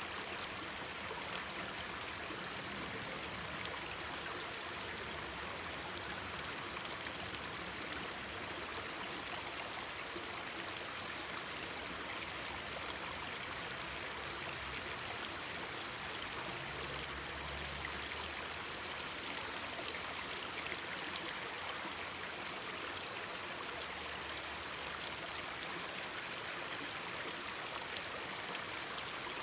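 Mountain stream babbling steadily, with faint crackles from a campfire. One sharp pop near the end.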